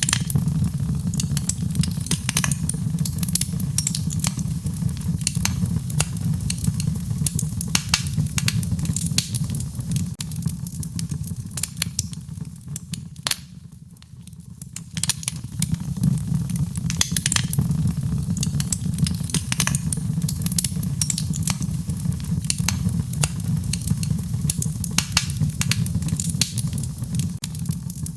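Wood fire crackling in a fireplace: frequent sharp pops and snaps over a steady low rumble. The crackling thins out and drops in level for a couple of seconds about halfway through, just after one sharp snap.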